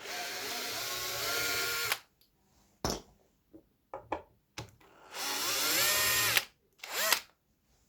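Cordless drill or power screwdriver backing out screws: two runs of motor whine, the pitch rising as each spins up, with a brief trigger blip near the end.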